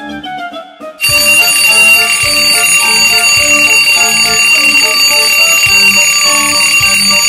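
An electric alarm bell ringing continuously, starting suddenly about a second in, over background music.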